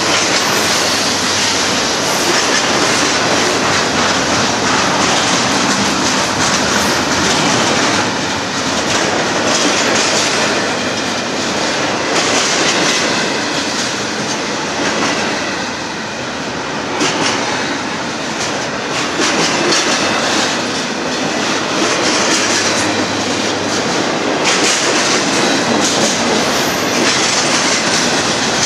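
A Union Pacific container train's cars rolling past with a continuous loud rumble and rattle, and a clickety-clack of wheels over the rail joints.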